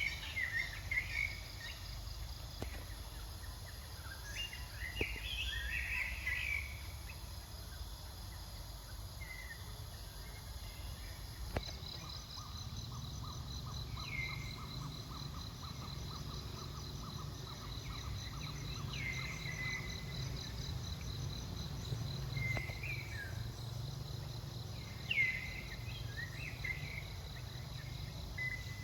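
Outdoor insect and bird ambience: scattered short bird chirps throughout, and a steady pulsing insect trill that starts about a third of the way in, over a low rumble.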